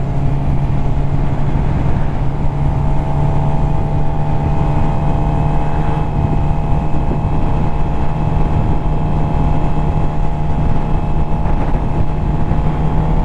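Suzuki GSX-R750's inline-four engine running at a steady cruising speed, its pitch drifting only slightly, over low wind rumble on the helmet-mounted microphone.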